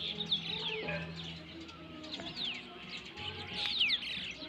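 Birds calling outdoors, several quick high whistles that slide downward, repeating every second or so.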